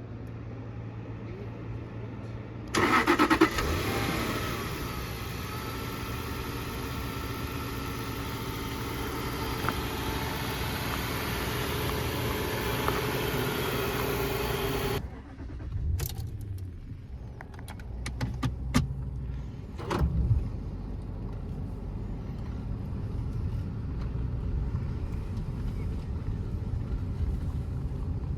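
Jaguar XJ8's 4.2-litre V8 starting about three seconds in, its revs flaring and settling into a steady idle that breaks off suddenly around halfway. Then come a few sharp clicks and knocks, followed by a low steady rumble.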